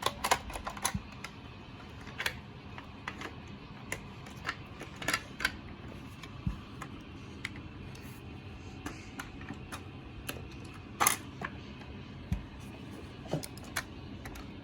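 Hands handling plastic toy parts: irregular clicks and taps as pieces are fitted and pressed together, with the loudest clatter about eleven seconds in.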